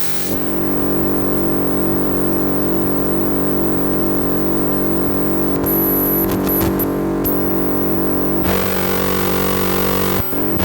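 Synthesizers holding a dense, steady drone of several sustained tones. A high whistling tone cuts in and out around the middle, the texture brightens about two-thirds of the way through, and the sound turns choppy near the end.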